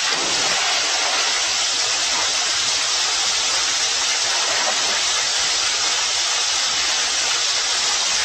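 A steady, loud hissing noise with no pitch or rhythm.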